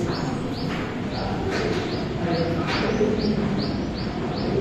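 A small bird chirping over and over, about two to three short chirps a second, over a steady low background murmur.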